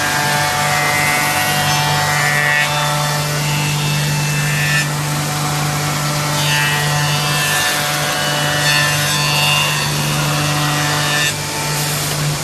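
Automatic woodworking copy shaper running, its spindle cutters milling solid wood: a steady machine hum under cutting noise that rises and falls.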